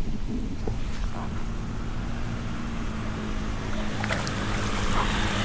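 An engine running with a steady hum that grows louder toward the end, over a low rumbling noise.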